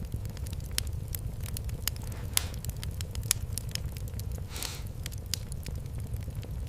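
Wood fire crackling in a fireplace, with frequent irregular sharp pops over a steady low rumble of the flames. A short hiss comes about four and a half seconds in.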